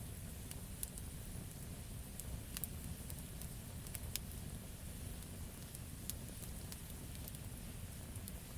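Campfire of burning wood crackling: irregular sharp pops and snaps over a steady low rumble and soft hiss of the flames.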